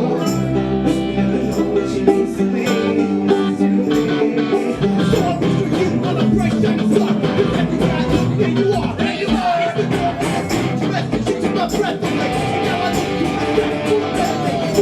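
A rock band playing live: electric guitars and drums in an instrumental passage, with a gliding lead line near the middle.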